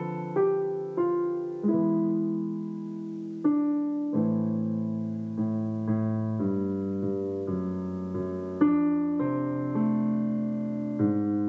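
Solo piano playing a slow Christmas song cover: chords struck every half-second to second and left to ring out and fade.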